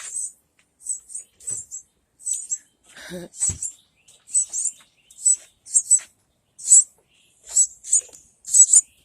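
Wren nestlings calling from inside their nest hole: short, high calls repeated about once or twice a second, with a brief low thump about three and a half seconds in.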